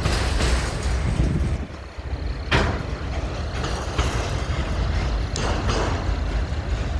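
Freight train rolling past: a steady low rumble broken by irregular sharp clanks from the wheels and cars.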